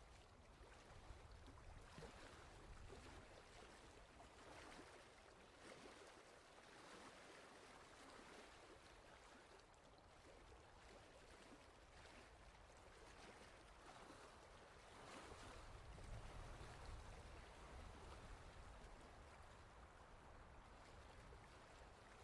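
Faint, steady rushing noise, like running water, with a low rumble that swells briefly about sixteen seconds in.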